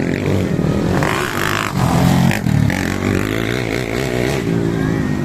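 Motorcycle engine running and revving, its pitch wavering up and down.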